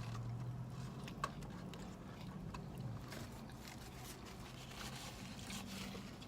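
Steady low hum of a car inside the cabin, with scattered small clicks and rustles.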